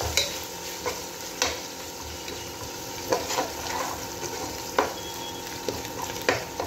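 Onions, ginger-garlic paste, curry leaves, mint and green chillies frying in oil in a pot, sizzling steadily. A spoon stirs the mix and knocks against the pot about every second or so, roasting the masala until it turns golden.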